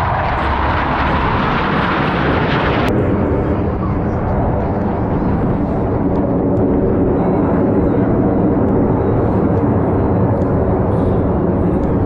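Blue Angels jet aircraft engines running loud and steady. A bright, hissing roar cuts off abruptly about three seconds in, leaving a lower, steady jet rumble.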